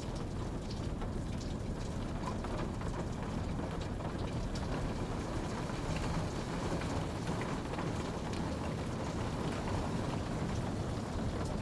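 Steady rain falling, an even rushing hiss with scattered drop ticks.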